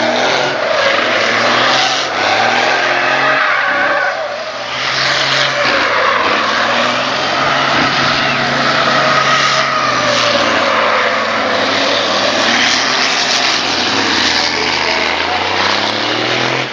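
Racing trucks' diesel engines running hard around the circuit. The engine pitch rises and falls as the trucks pass and change speed.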